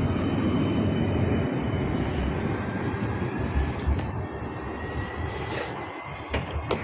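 Tram pulling away: a rolling rumble that fades while a thin motor whine slowly rises in pitch, with a few sharp clicks near the end.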